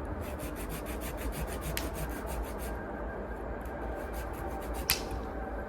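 Rapid rhythmic scraping or rasping, about seven strokes a second in two runs, over a steady low rumble, with one sharp click near the end.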